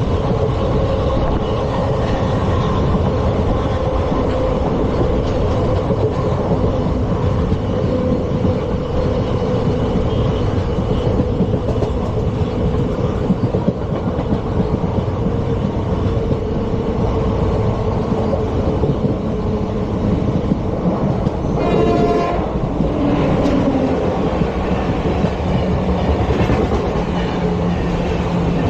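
ICF passenger coach running along the track: a steady, loud rumble of wheels on rail, with a short sharp rattle about three-quarters of the way through.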